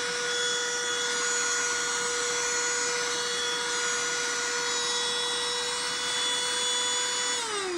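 Cordless handheld vacuum running with a steady high motor whine and airflow hiss, picking up pet litter from a mat; near the end it is switched off and the whine drops in pitch as the motor spins down.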